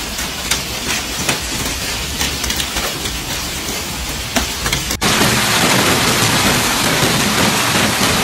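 Hailstones pelting down, many sharp separate strikes over a steady hiss. About five seconds in it cuts abruptly to a louder, denser downpour.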